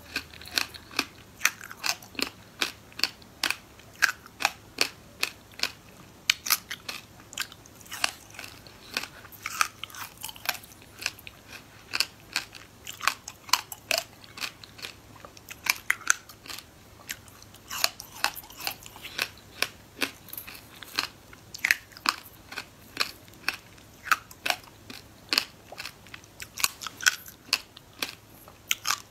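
Frozen passion-fruit pieces bitten and chewed close to the microphone: sharp, crisp crunches in quick succession, a few every second.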